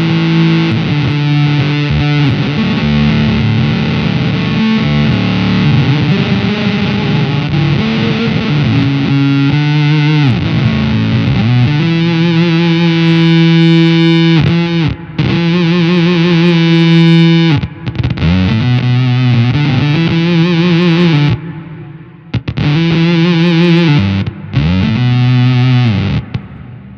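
Electric guitar through an EarthQuaker Devices Data Corrupter PLL synth pedal, giving a thick, gated, fuzzy synth tone with its subharmonic oscillator mixed in. The notes are held, with pitch swoops between them, and the sound cuts off abruptly a few times in the second half.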